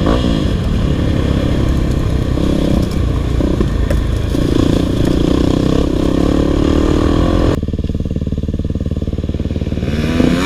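Dirt bike engine running hard under throttle while riding, its pitch rising and falling with the throttle and gears. About three-quarters of the way through, the throttle closes and the engine drops to a lower, steadier note.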